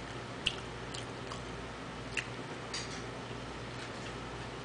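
A man chewing a sandwich close to the microphone: a handful of short, sharp mouth clicks over a steady low hum.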